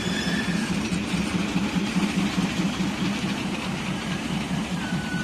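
Engine of the Darjeeling toy train's locomotive running steadily with a fast, even throb.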